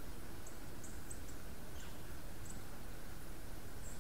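Quiet woodland ambience: a steady low rush with scattered short, very high-pitched chirps from small birds at irregular intervals.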